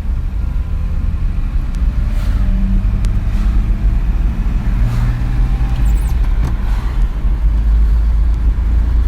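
Stock L20A straight-six engine of a 1969 Nissan Cedric 130 Wagon running steadily through its stock exhaust, a deep, even sound.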